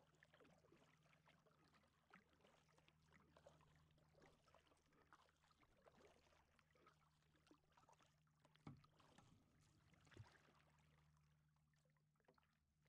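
Faint kayak paddling: small irregular splashes and drips of the paddle in the water over a low steady hum, with two sharper knocks near the end.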